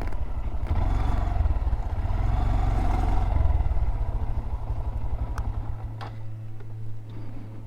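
Small motorcycle engine running while riding, then easing off about five seconds in and settling to a quieter, steady idle.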